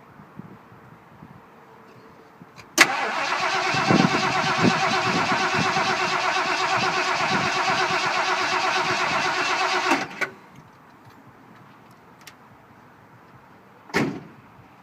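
Ford Torino's starter motor cranking the cold engine for about seven seconds without it catching, then cutting off abruptly. The failed start comes with a nearly empty tank and timing that the owner suspects is off. A short thump follows near the end.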